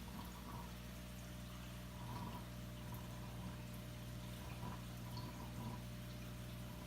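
Aquarium filter running: a faint steady trickle of water with small drips and ticks over a constant low motor hum.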